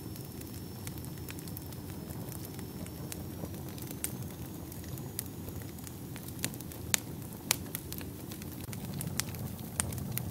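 Wood fire burning in a fireplace: a steady low rumble of flames with irregular sharp crackles and pops, a few louder pops past the middle.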